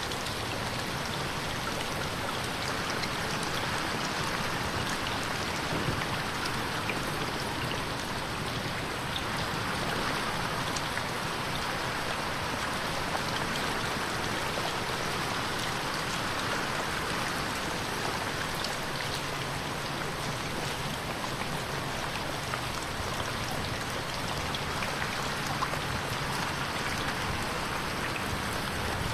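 Steady rain pattering on a window pane, a dense even hiss of many small drop ticks.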